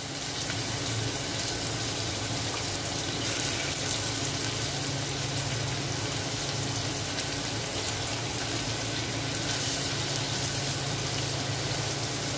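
Chopped onion frying in hot oil in a pot, a steady sizzle.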